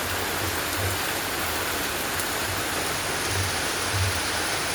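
Steady hiss of heavy rain falling, mixed with rushing runoff water.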